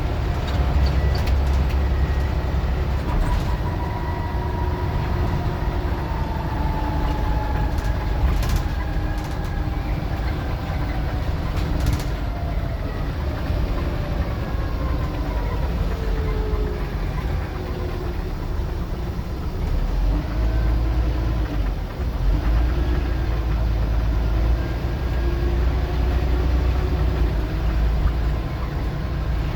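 Scania N94UD OmniDecka double-decker bus being driven hard: a heavy engine rumble with a whine that rises and falls in pitch as it pulls away and changes speed, and a couple of sharp rattles about eight and twelve seconds in.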